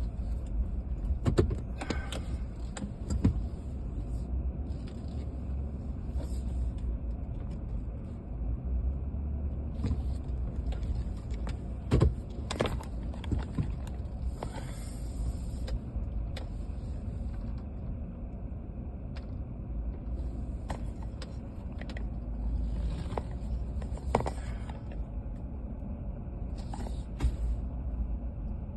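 Low, steady rumble of a pickup truck driving slowly, heard from inside the cab, with scattered clicks and knocks.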